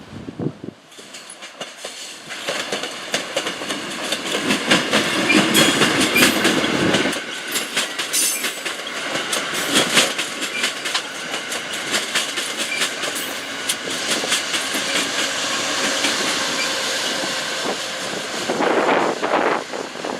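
Passenger train passing close by at speed. A deep rumble builds over the first few seconds and cuts off sharply about a third of the way in, while a rapid clatter of wheels over the rail joints carries on throughout, with a loud swell near the end.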